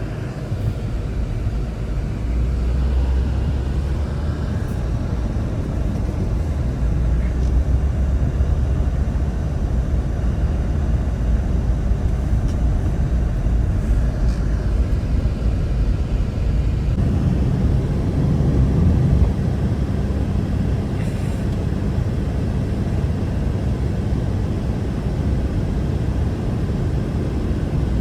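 Strong blizzard wind blowing in a steady low rumble, shifting about seventeen seconds in.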